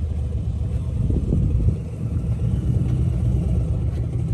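Motorcycle engine running with a steady low rumble while riding at slow speed, swelling briefly about a second in.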